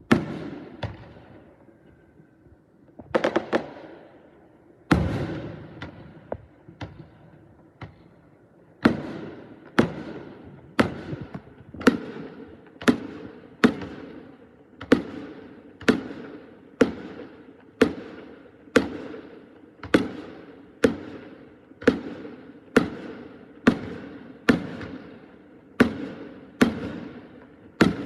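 Fireworks exploding: a few scattered bangs at first, then from about nine seconds a steady run of bangs about once a second, each one trailing off in a ringing echo.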